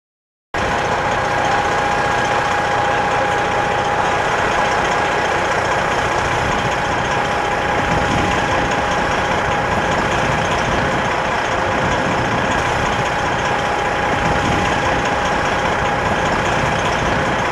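Heavy truck engine running steadily, with a constant whine over the engine noise; the sound cuts in abruptly about half a second in.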